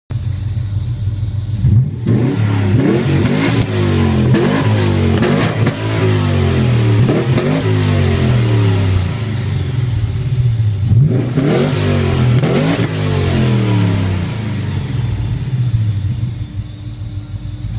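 Exhaust of a Holden VL Calais fitted with a 6.0-litre L98 V8, heard from the rear of the car: idling, then revved in a series of quick blips from about two seconds in, again around eleven seconds, settling back to idle near the end.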